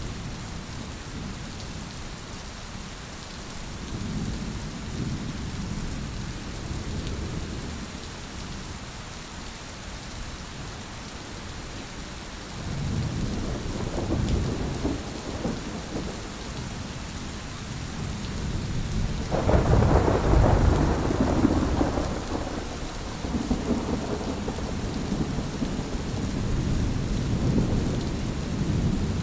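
Steady rain with rolling thunder. Low rumbles swell and fade several times, and the loudest peal breaks in suddenly about two-thirds of the way through, rumbling on for several seconds.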